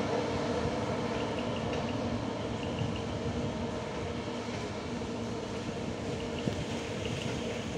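Diesel-hauled passenger train running steadily: an engine hum over a rolling rumble that slowly fades.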